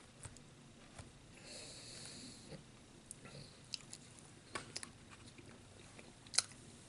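A person eating a tamale dinner: faint chewing with scattered small clicks and taps, and one sharper click near the end.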